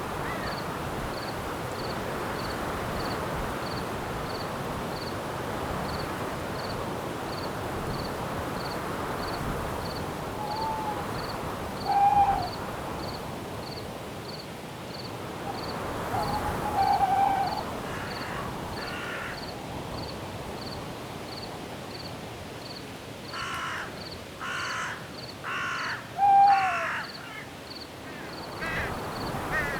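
Night forest ambience: wind rushing steadily through the trees, with a cricket chirping evenly about twice a second. Short owl hoots come through a few times, and near the end a bird gives a run of four harsh calls.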